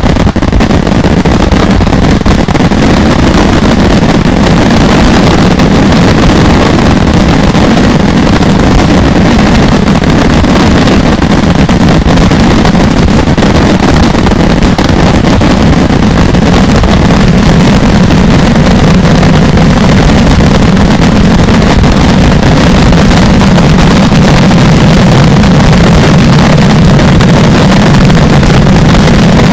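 Continuous barrage of daylight fireworks: firecracker and shell reports so dense that they merge into one steady, very loud noise without a break.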